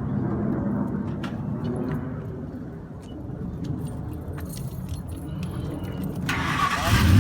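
Keys jangling and clicking over a low rumble, then near the end the 1999 Ford F-150's engine cranks and catches, its pitch rising quickly as it fires up.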